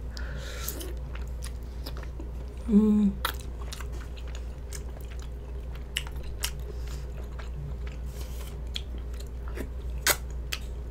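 A person chewing a soft, sticky rice cake close to the microphone, with wet mouth clicks and smacks throughout and a short 'mm' hum about three seconds in. A low steady hum runs underneath.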